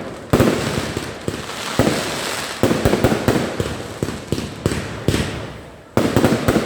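Fireworks display: a series of sharp shell bursts and bangs, each trailing off in an echoing tail, with a quick cluster of bangs near the end.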